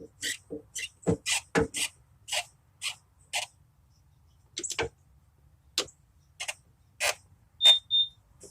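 A string of sharp clicks and knocks at irregular spacing, about one or two a second, with a pause in the middle. Near the end come two short, high ringing beeps.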